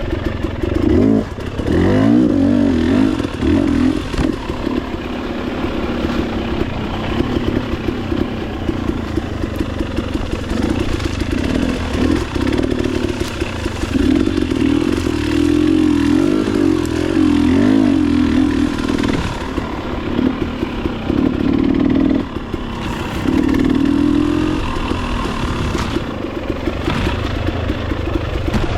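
Motorcycle engine running under way, its pitch rising and falling with the throttle, with brief drops in level about a second in and again near the 22-second mark.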